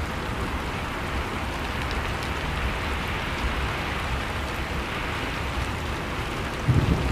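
Steady rushing hiss of blizzard wind, with faint scattered crackles from a wood fire. A louder low rumble surges in near the end.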